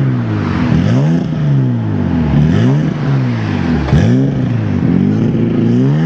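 Toyota Supra MK4's 2JZ-GTE straight-six engine revving over and over, its pitch swinging down and back up about once a second.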